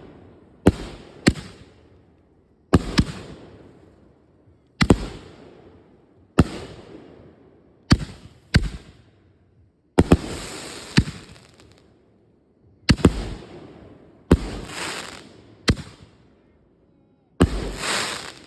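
A rack of consumer firework mortar tubes going off one after another along a chained fuse: about fourteen sharp bangs at uneven gaps of half a second to two seconds, each trailing off in crackle and echo, the last ones the loudest.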